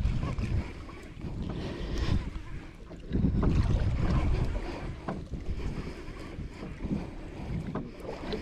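Wind buffeting the microphone on a boat at sea, in uneven low rumbling gusts, with a few faint clicks.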